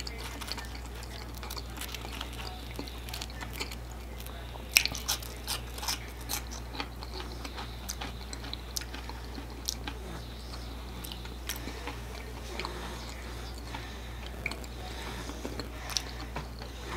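Close-miked chewing of french fries: a run of short mouth clicks and smacks, densest and loudest about five seconds in, over a steady low hum.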